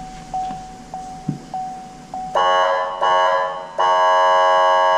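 Fire truck horn honked three times, about halfway through, the last blast the longest. Underneath runs a steady, even tone from the cab with brief dropouts.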